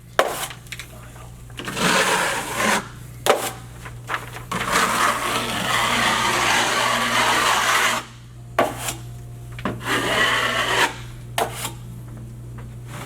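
Drywall knife spreading and scraping quick-setting joint compound across a drywall seam in several long scraping strokes, with a few sharp knocks in between.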